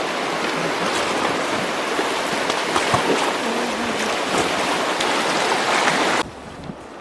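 Loud rushing river water, a steady hiss of rapids, that cuts off abruptly about six seconds in and gives way to a much quieter background.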